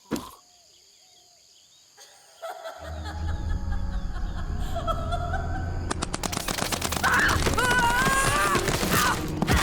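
Cartoon soundtrack: after a short click and a near-quiet stretch, a dramatic music cue with a heavy bass comes in. From about six seconds it is joined by a rapid run of gunfire-like shots and gliding whistle-like tones.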